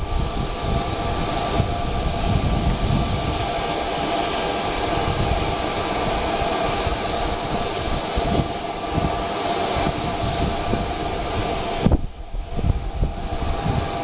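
Jet aircraft engine running steadily on the ground, a constant whine and hiss, with gusts of wind rumbling on the microphone. The sound dips briefly about twelve seconds in.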